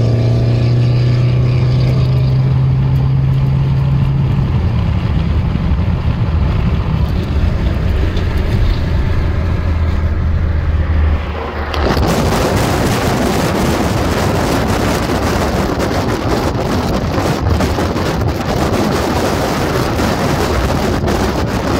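Dodge SRT V8 heard from inside the cabin at highway speed, a steady low engine drone with road noise; its note steps down about four seconds in. About twelve seconds in it gives way abruptly to loud wind rushing past an open car window.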